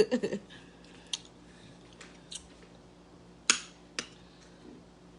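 Eating sounds: a few short, sharp mouth clicks and smacks while chewing, the loudest about three and a half seconds in.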